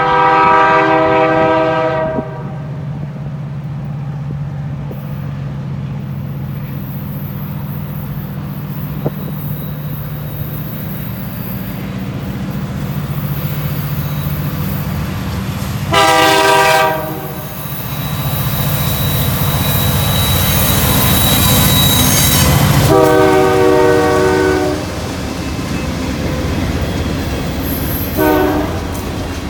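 CN diesel freight locomotives sounding their air horn in several blasts: one ending about two seconds in, a long blast around the middle, another a few seconds later, and a short toot near the end. Between the blasts the locomotives' diesel engines hum steadily, and the rolling noise of the train swells as it draws near.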